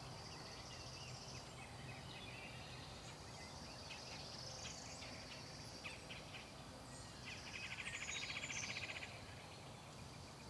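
Several birds chirping and calling in the open, over a steady high insect hum. About seven seconds in, a rapid, even trill starts and lasts a little under two seconds; it is the loudest sound here.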